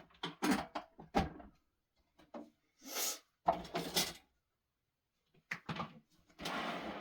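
Indoor handling noises: several short knocks and scrapes, with a brief rushing noise about three seconds in and a longer one near the end.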